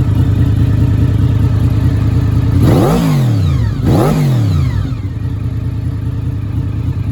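1993 Honda VFR750F's V4 engine through a Delkevic aftermarket exhaust, idling, blipped twice in quick succession about three seconds in, each rev rising sharply and falling straight back, then settling to idle.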